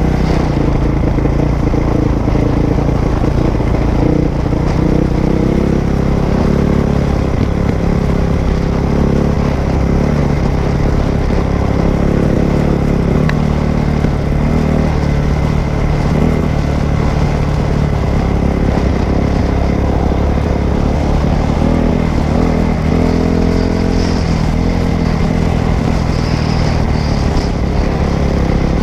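Dirt bike engine running while being ridden. Its pitch rises and falls with the throttle throughout.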